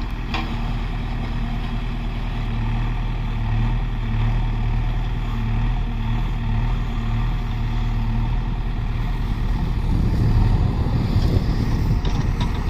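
Heavy diesel engine running steadily, turning rougher and a little louder about ten seconds in as it takes on more load or revs.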